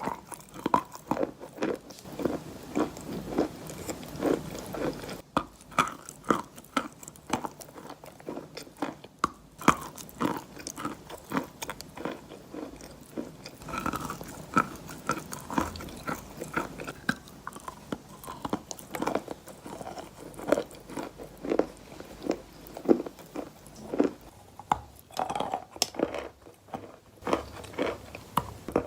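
Wet, gritty sand crunching over and over in short, irregular crunches, about one or two a second.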